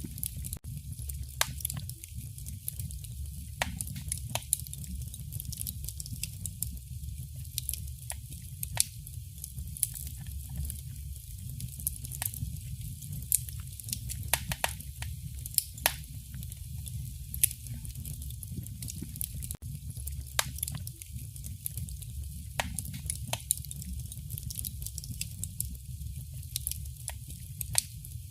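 Wood fire burning in a fireplace: irregular crackles and sharp pops over a steady low rumble and a soft hiss.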